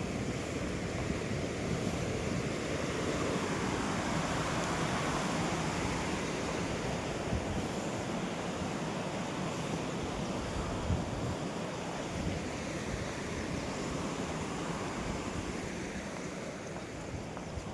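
Steady rushing of water from a rocky waterfall, with some wind rumbling on the microphone.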